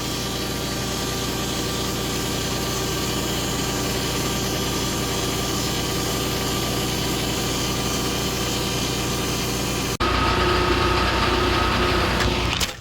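A portable sawmill's engine running steadily. About ten seconds in, a sudden cut to a louder engine sound with a steady whine, which falls away just before the end.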